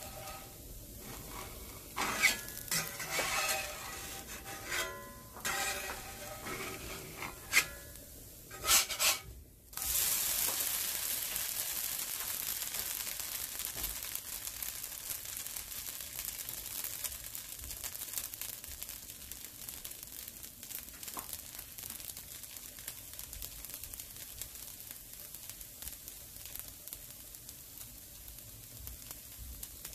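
A metal spatula clicking and scraping against a cast iron pan. About ten seconds in, after a brief pause, a dosa sizzles steadily in the hot oil, the sizzle slowly dying down as it cooks.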